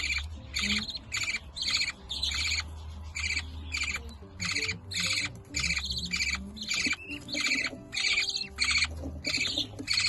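Budgerigar chicks begging while their mother feeds them: a steady run of buzzy calls, about two a second.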